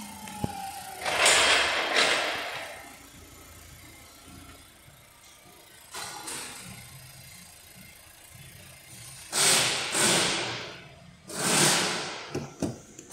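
Holden Astra 1.4-litre Ecotec four-cylinder engine running at idle, with loud rushing bursts of noise about a second long, once near the start and twice near the end.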